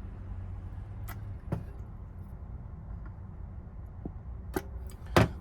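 A few light clicks and taps from handling a pressure gauge and the container of denatured alcohol being poured into it, the sharpest one near the end, over a low steady hum.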